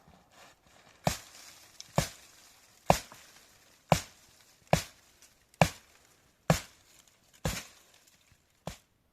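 Firewood being chopped with an axe: nine sharp strokes, about one a second, the last one lighter.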